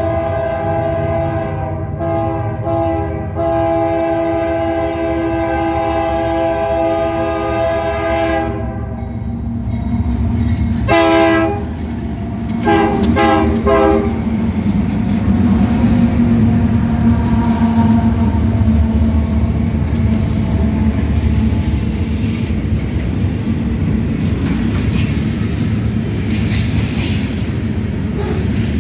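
Freight train air horn on a GE diesel locomotive sounding one long chord-like blast with brief breaks, then two shorter blasts. After that the locomotives' diesel engines rumble and the wheels of the passing freight cars run steadily on the rails.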